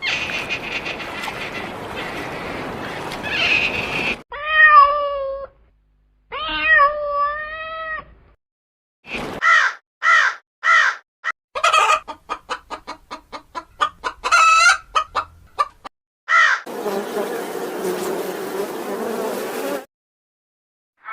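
A string of different animal calls cut one after another: a noisy stretch, two pitched bending calls, a few short pulsed calls, a rapid run of short calls, then another noisy stretch, with brief silences between the clips.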